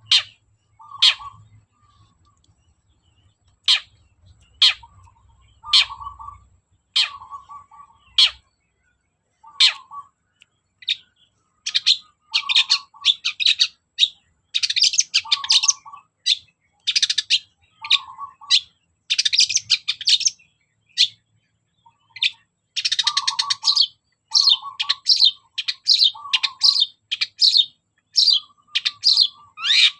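Long-tailed shrike (cendet) singing: separate sharp, high calls alternating with a lower note at first, then from about twelve seconds in a fast, dense run of chattering phrases.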